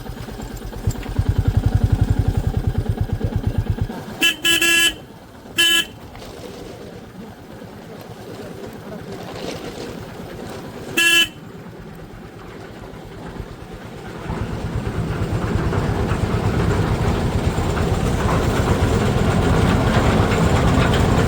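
Motorcycle engine running, then the bike's horn honking: three short toots about four to six seconds in and one more about eleven seconds in, given as a mark of respect toward a temple. The engine noise rises again in the last third.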